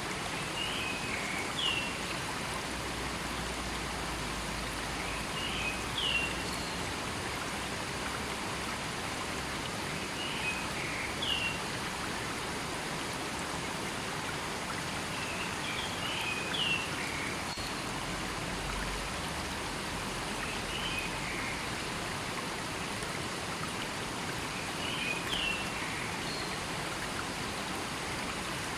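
River or stream flowing with a steady rushing sound. Over it, a bird gives a short call of a few quick high notes, repeated about every four and a half seconds.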